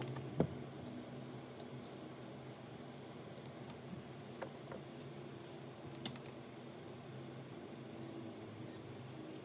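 Scattered light clicks and taps of small hand tools working on an iPhone at a repair bench, over a faint steady hum. Two short high beeps come about eight seconds in.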